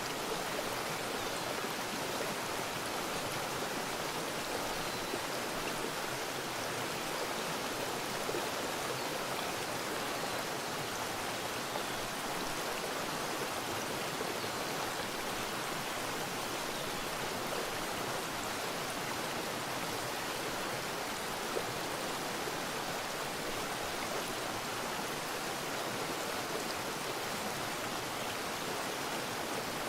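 Creek water rushing and babbling over rocks, a steady, unbroken flow.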